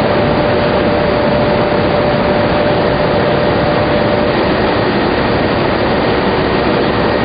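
Tobacco lamina flash-drying machinery running: a loud, steady machine noise with a constant hum that does not change.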